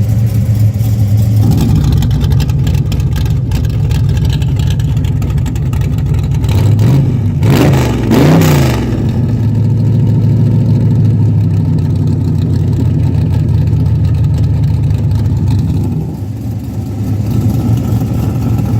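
1966 Chevelle's engine idling through its exhaust, which gets louder about a second and a half in as the exhaust dump valves are opened. The engine is revved up and back down twice around the middle, and the exhaust drops quieter again near the end.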